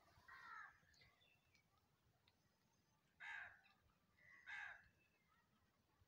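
A bird calling three times, faint short calls: one near the start, then two more about three and four and a half seconds in.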